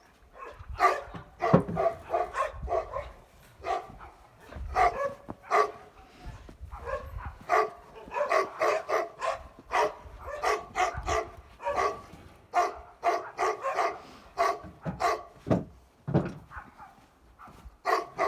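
A dog barking over and over, in quick runs of short barks with brief pauses between them.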